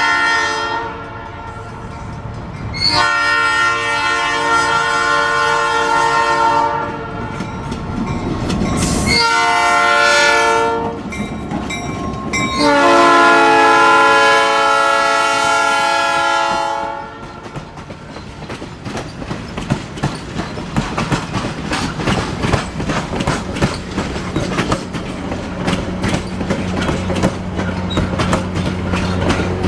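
Locomotive air horn sounding a long blast, a short blast and another long blast, the tail of a long-long-short-long grade-crossing signal. Then the train's wheels click steadily over the rail joints as the cars pass.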